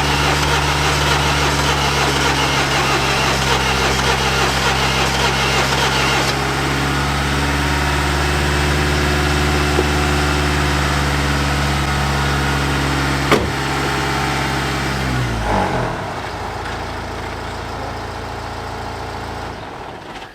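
The MINI's 1.6 HDi DV6 diesel being cranked on the starter motor for about fifteen seconds without firing, then spinning down. The engine will not start. A sharp click comes shortly before the cranking stops.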